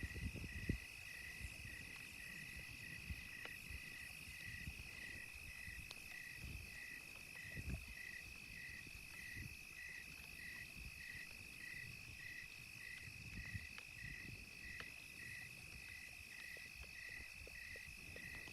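Night insects: a steady high trill with a second insect chirping in an even rhythm about twice a second, over faint pops and crackles from a campfire.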